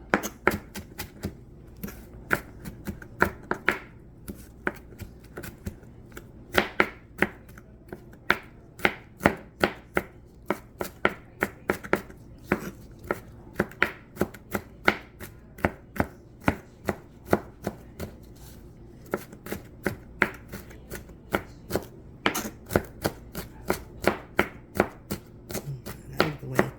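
A knife chopping celery, a steady run of sharp chops at about two or three a second.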